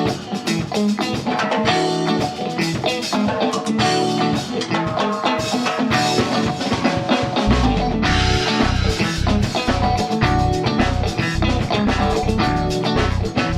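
Instrumental intro of a rock song: guitar with drums, and a heavy low end coming in about halfway through.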